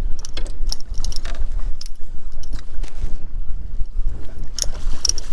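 Wind rumbling on the microphone over open water, with repeated sharp splashes and knocks from a hooked speckled trout shaking its head at the surface. The splashes are strongest near the end.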